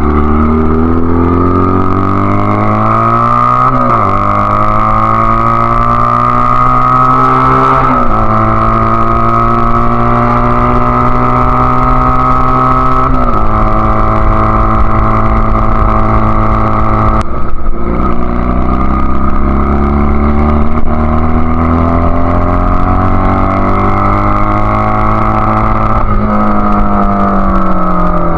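1999 Honda Rebel CA125's single-cylinder engine, breathing through a free-flowing BSM/Highway Hawk exhaust, pulling up through the gears. The pitch climbs and then drops at each upshift, roughly every four seconds. It climbs again after a shift about two-thirds in, then falls away near the end as the bike slows.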